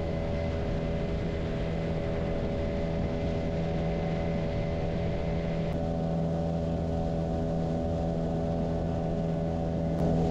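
Motorboat engine running at a steady speed, a constant hum with no change in pitch.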